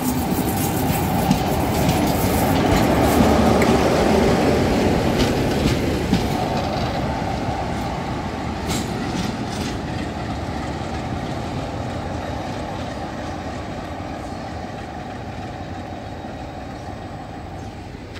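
Passenger train rolling out of the station: coach wheels clicking and rumbling over the track close by. The sound builds for the first few seconds, then fades steadily as the train draws away.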